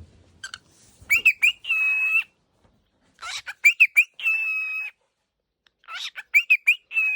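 A cockatiel calls three times. Each call is a few quick chirps followed by a held, steady note.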